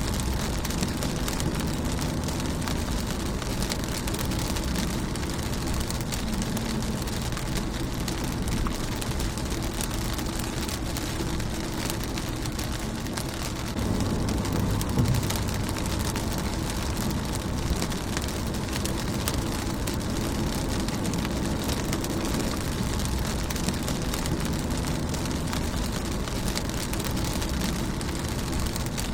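Steady rain falling on a car's windshield: a dense patter of drops over a low rumble, which swells briefly about halfway through.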